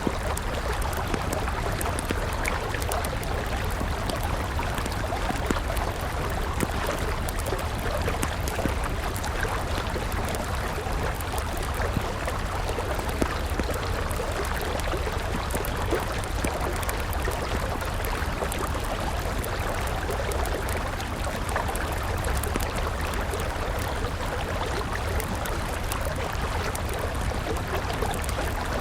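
A river flowing steadily, with a wood campfire crackling over it in many small, quick snaps.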